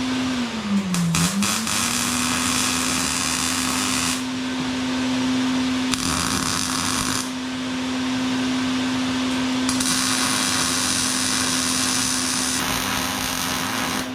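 Electric angle grinder running steadily. Its pitch sags briefly about a second in as it takes load, and it grinds steel in several spells of loud hiss before it shuts off.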